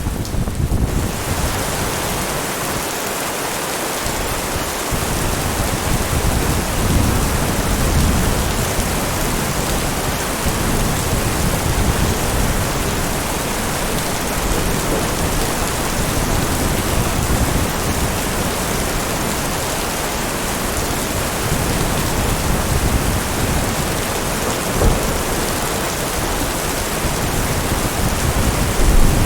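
Heavy rain falling steadily, with low rolls of thunder rumbling underneath now and then.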